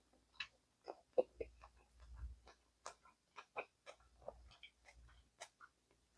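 Close-miked eating sounds from a gamjatang (pork-bone stew) mukbang: a string of irregular soft clicks and smacks of chewing.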